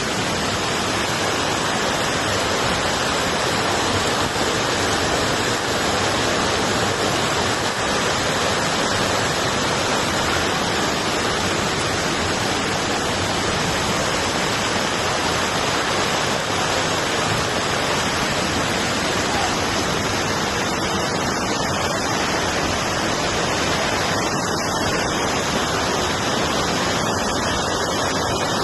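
Floodwater rushing past in a steady, even roar that does not let up.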